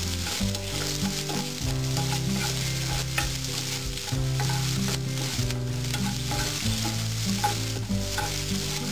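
Sliced onions sizzling as they fry in hot oil with tempered mustard seeds and curry leaves in a kadhai, while a steel spoon stirs and scrapes them around the pan.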